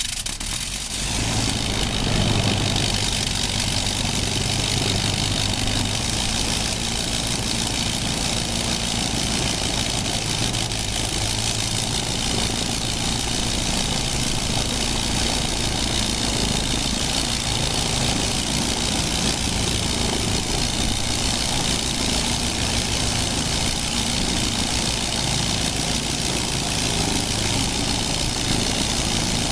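Old radial aircraft engine running steadily at idle, an even, rapid firing beat with a low hum.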